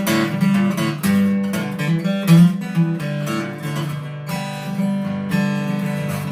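Acoustic guitar strummed in a song intro, chords ringing with a steady strum.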